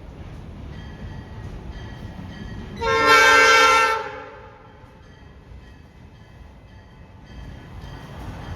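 Freight locomotive air horn sounding one short blast of about a second, several notes sounding together, over the low rumble of the passing train.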